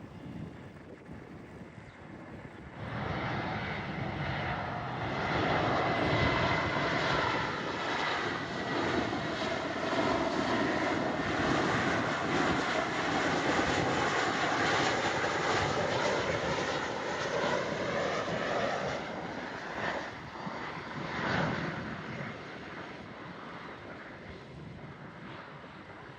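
Jet aircraft passing, its engine noise swelling about three seconds in, staying loud for a long stretch, then fading away near the end.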